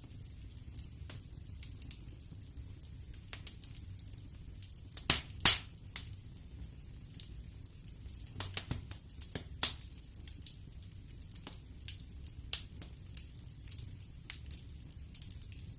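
Wood fire burning in a fireplace, crackling and popping with scattered sharp snaps over a low steady rumble of the flames; the loudest pops come about five seconds in, with another flurry a few seconds later.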